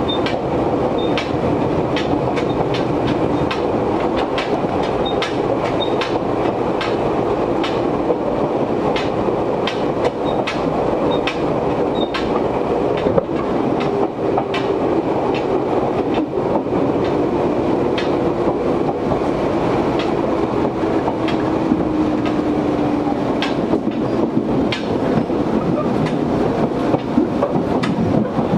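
Izuhakone Railway 1300 series electric train running, heard from inside the car: steady running noise with the air conditioning blowing hard, and many clicks and clanks, including the gangway plates clattering. A low tone falls slowly in pitch through the second half.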